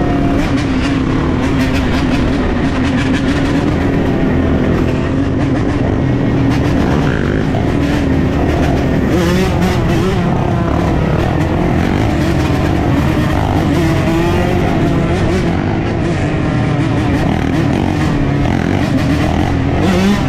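A large pack of dirt bikes and ATVs running together, many engines at once with their pitches wavering up and down as riders blip the throttle. One revs up sharply near the end.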